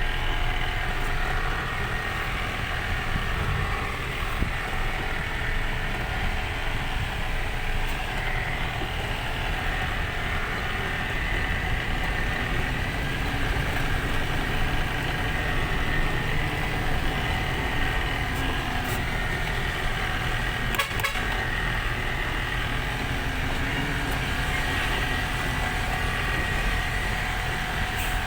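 Cargo truck running steadily on the road, a constant low engine and road rumble with faint steady whine, and one brief click about three-quarters of the way through.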